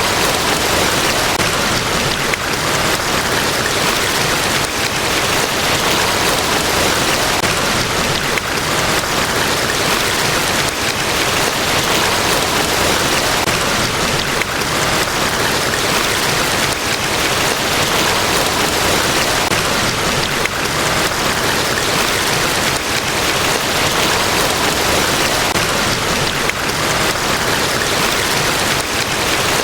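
Large waterfall: a steady, unbroken roar of falling water.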